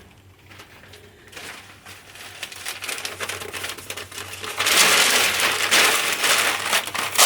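Newspaper being crumpled up by hand: a dense crackling rustle, light at first and getting much louder from a bit over halfway through as the sheets are balled up.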